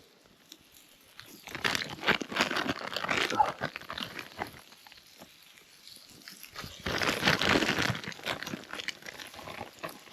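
Plastic bag crinkling and rustling in two bursts, about a second in and again near seven seconds, as floured chicken strips are handled and taken out of the bag.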